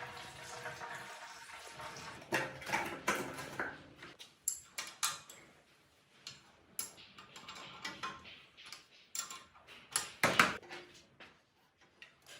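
Irregular clinks and knocks of metal parts being handled, over a hiss in the first few seconds, with the loudest knock a little after ten seconds in.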